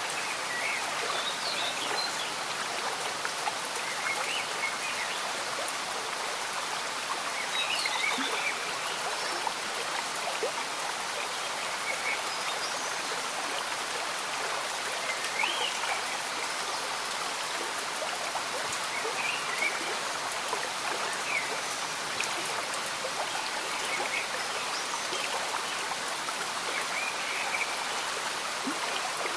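Slow-moving stream bubbling steadily under falling rain, with short high blips of sound scattered every second or two.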